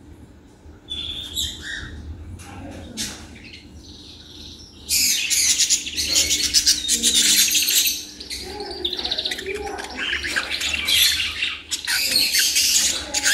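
A group of caged budgerigars chirping and chattering: a few scattered chirps at first, then about five seconds in the whole group breaks into loud, dense, high-pitched chatter that keeps going.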